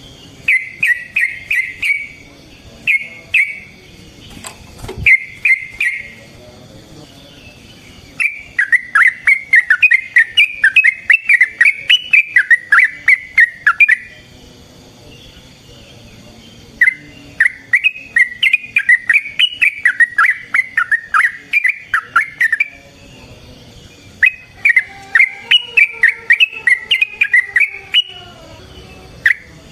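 Yellow-vented bulbul (trucukan) singing: a few short bubbly phrases, then three long rolling runs of rapid chattering notes, each several seconds long.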